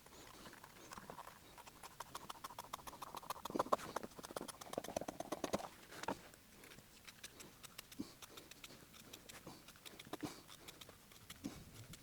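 Small clicks, snips and scrapes from hand work on a car seat's leather and fabric cover, coming in a quick dense run for a few seconds, then sparser.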